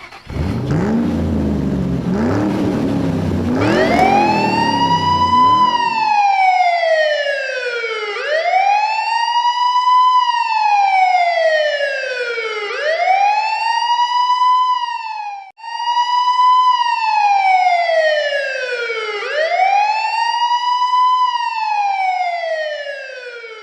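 Low rumbling noise for the first few seconds, then an electronic fire-truck-style siren wailing, rising and falling slowly about every four to five seconds, with a brief break partway through.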